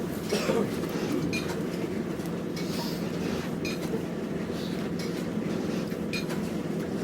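Scattered light metallic clinks and taps over a steady low hum.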